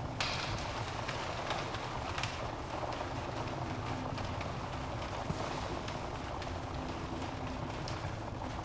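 Wood fire burning in a fireplace: a steady low rush of flames with irregular sharp crackles and pops from the logs, the loudest pop just after the start.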